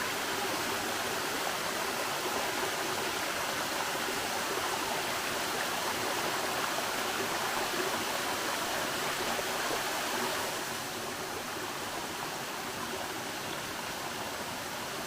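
Waterfall rushing in a steady, even roar of falling water, running high after a foot of hurricane rain. It gets a little quieter about ten and a half seconds in.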